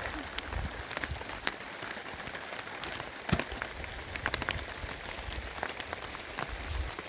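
Heavy rain falling, with many individual drops ticking sharply and irregularly on a surface close by, one loudest tick about three seconds in. Low rumbles come and go underneath.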